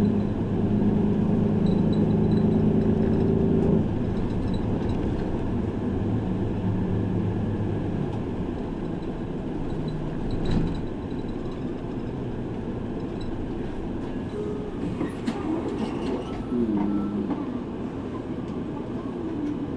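Route bus heard from inside the cabin while driving: the engine pulls with a steady tone for about the first four seconds, then eases off, leaving road and cabin rumble with a short knock around ten seconds in.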